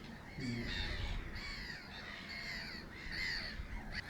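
Black-headed gulls calling over and over, many harsh arched calls overlapping one another.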